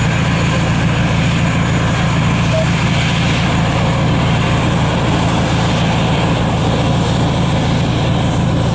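Steady low engine rumble with an even hiss above it.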